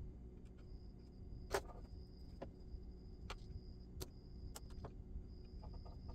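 Scattered faint clicks and taps of small metal parts being handled as a clip is worked back onto a Lionel model locomotive's motor, over a low steady hum and a high thin tone that comes and goes.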